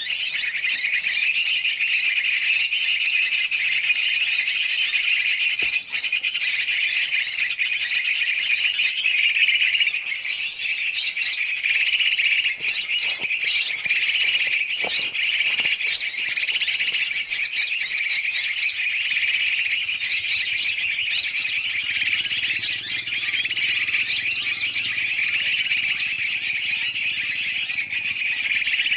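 Dense, noisy chorus of many birds chirping and calling at once without a break: a bird-lure recording mixing the calls of large and small birds to draw birds in.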